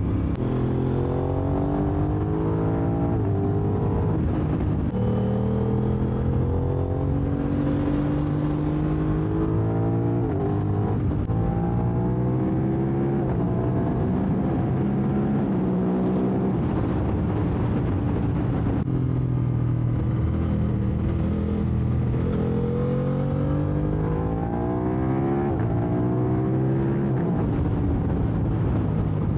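Aprilia RS660's parallel-twin engine through an SC-Project SC1-R full exhaust, ridden hard: the revs climb repeatedly, drop sharply at each gear change and fall away on deceleration.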